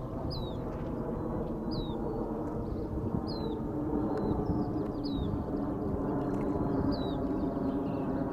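A bird's short high chirp, falling in pitch, repeated evenly about every second and a half over a steady low rumble.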